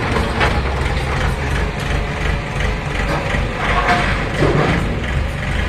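A heavy engine running steadily under scattered knocks and clanks of scrap iron being handled.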